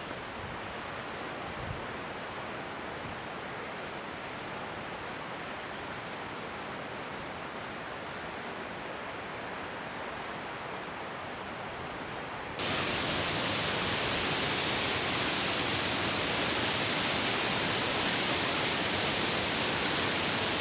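Steady rushing of a waterfall. A little over halfway through it suddenly gets louder and more hissy, then runs on evenly.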